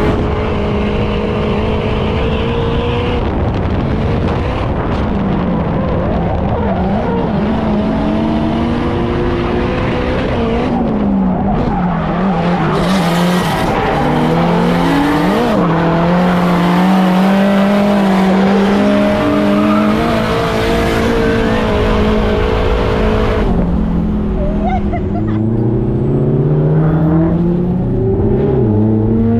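Turbocharged Nissan Silvia drift car's engine revving up and down through a drift, with tyres screeching loudest in the middle. Near the end the screech stops and the engine pitch climbs as the car accelerates.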